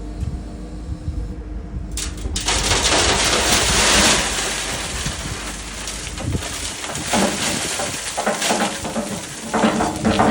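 Loose stone pouring and rattling in a long rush that starts about two seconds in and swells again near the end. A steady machine engine hum runs underneath.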